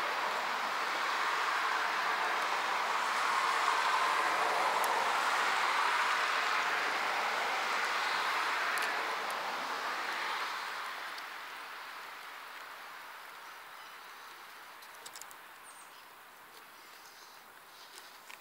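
Steady rushing noise of a passing vehicle, holding for about nine seconds and then fading away, with a few faint clicks near the end.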